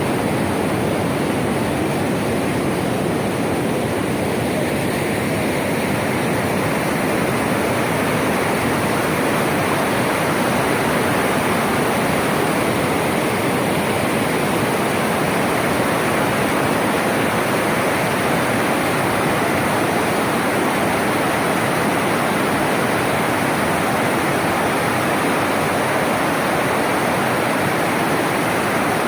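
Floodwater rushing steadily in a swollen torrent after heavy rain, a loud, even rush of water.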